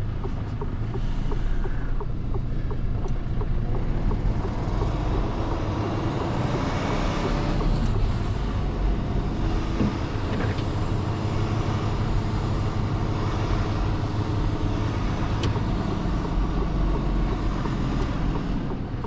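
Mercedes-Benz Actros truck's diesel engine running with a steady low rumble as the truck pulls away and drives off.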